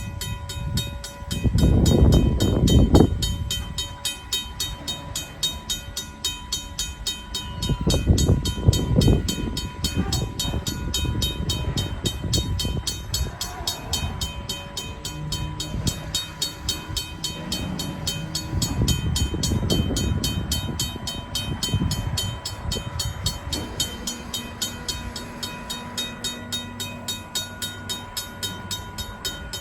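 RACO mechanical crossing bell ringing steadily at a little under two strikes a second, while the freight cars of a Union Pacific train roll through the crossing. The cars' rumble and wheel clatter swell three times and fade in between.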